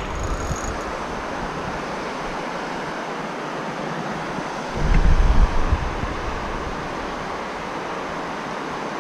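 Steady rushing of stream water, with wind buffeting the microphone in a low rumble for about a second near the middle.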